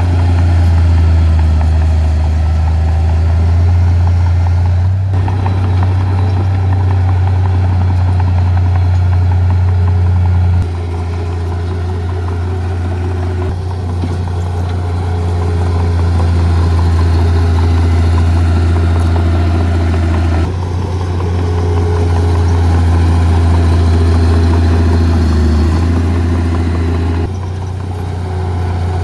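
Diesel engines of heavy earthmoving equipment running steadily with a deep, constant hum. The sound shifts abruptly in level and tone several times.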